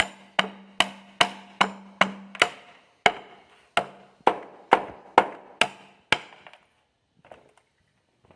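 Hammer blows on wood, about two a second in a steady rhythm of some fourteen strikes, stopping about six seconds in.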